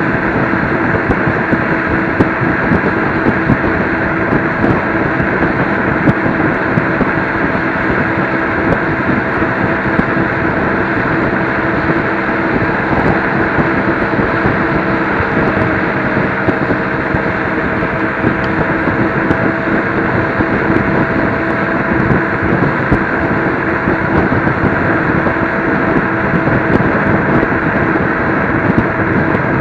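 Electric scooter riding at steady speed: a constant motor hum with wind and road noise on the microphone.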